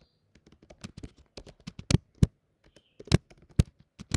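Typing on a computer keyboard: a run of irregular keystrokes, a few of them struck harder than the rest.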